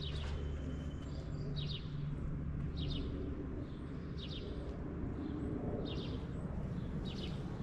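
A small songbird giving short chirping calls, about five or six in a row at roughly one-to-one-and-a-half-second intervals, over a steady low background rumble.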